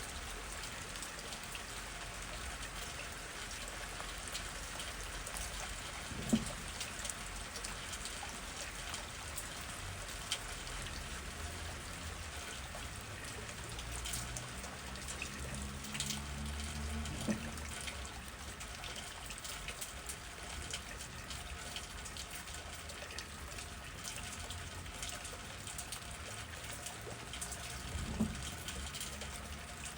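Steady rain falling, with many individual drops ticking close by. A few dull low knocks stand out, about six seconds in, in the middle and near the end, and a faint low hum rises and fades midway.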